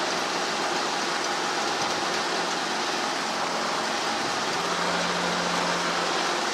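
Helicopter in flight: a steady rushing cabin noise with a faint low hum, the hum growing a little stronger for a second or so near the end.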